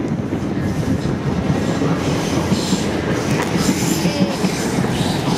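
A South West Trains electric multiple unit running past at the platforms, a steady rumble of wheels on rail with brief high wheel squeals near the middle.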